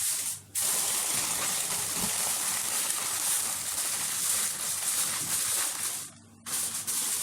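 Aluminium foil being handled and crinkled, a steady hissy rustle that breaks off briefly twice.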